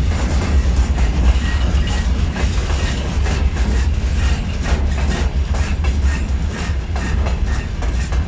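A train rolling past at close range: a heavy low rumble with a rapid run of clicks as the wheels pass over the rail joints.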